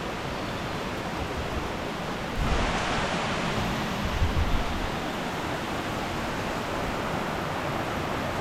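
Steady rush of fast-flowing water from a rain-swollen valley stream. It gets a little louder about two and a half seconds in, with a few low rumbling bumps around four seconds.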